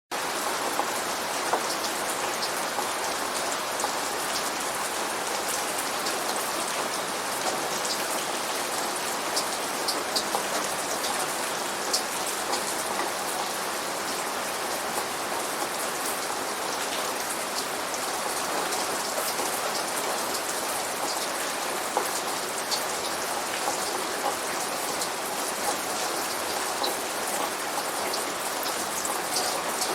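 Steady rain, with many individual drops ticking sharply on a hard surface over an even hiss.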